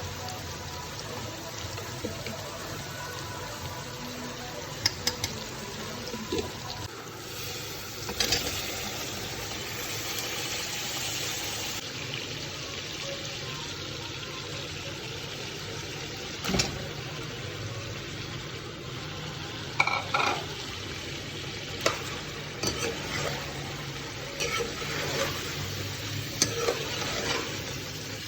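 Food sizzling as it fries in a pan while being stirred, with occasional sharp knocks of the spoon against the pan.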